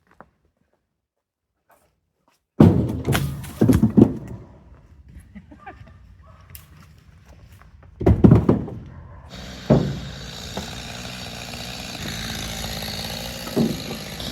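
Heavy wooden thunks of cut firewood being dropped or tossed down: four in quick succession, then a quieter pause, then another few about eight seconds in. After that a steady running machine sound sets in.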